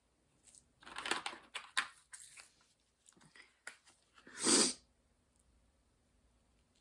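A dog's short noisy puffs of breath, with one louder burst about four and a half seconds in.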